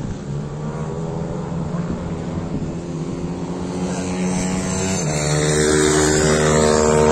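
Pit bike's small single-cylinder engine running steadily. About five seconds in, its pitch drops and it gets louder, as with a gear change or more throttle.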